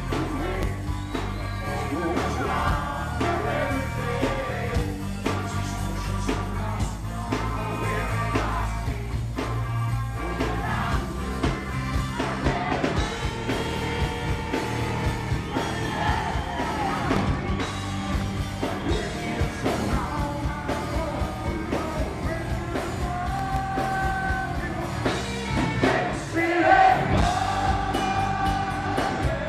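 Live hard rock band playing with a male lead singer, heard through a poor-quality audience recording. Near the end the singer holds long notes and the sound peaks.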